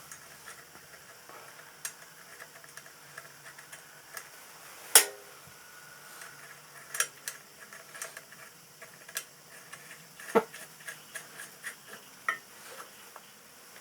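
Metal parts and tools being handled on a workbench: scattered clinks and knocks, with a loud ringing metal clank about five seconds in and another sharp knock near ten seconds.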